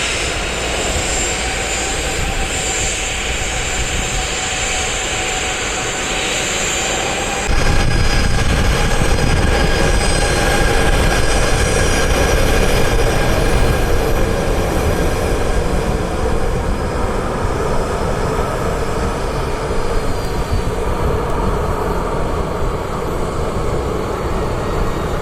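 Jet airliner engines running, a steady whine over a rumble. About seven seconds in, the low rumble steps up suddenly and stays louder.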